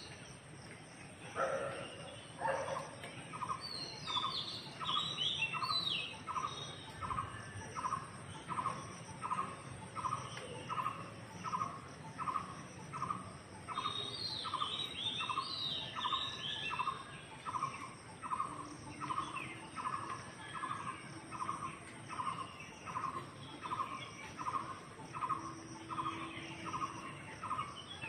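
A bird repeating one short call over and over, about one and a half times a second, with other small birds chirping higher up in short bursts.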